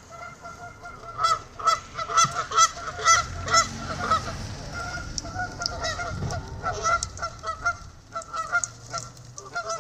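Several geese honking, a quick run of short, harsh honks for the first few seconds, then more scattered calls. The honking comes from geese squabbling among themselves.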